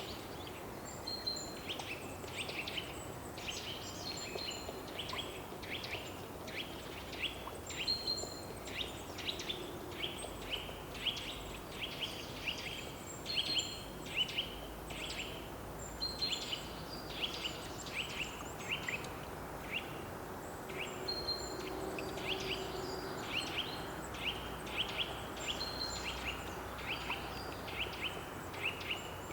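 Birds chirping: a steady run of short, quick notes, two or three a second, with occasional higher short whistles, over a steady background hiss.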